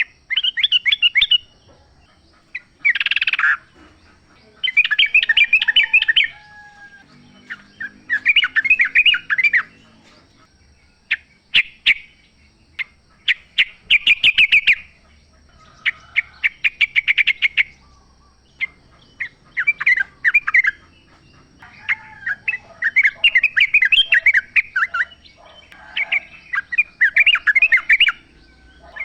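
Yellow-vented bulbul (trucukan) singing: short, bubbly chattering phrases about a second long, repeated with brief pauses between, sometimes answered by a second bird.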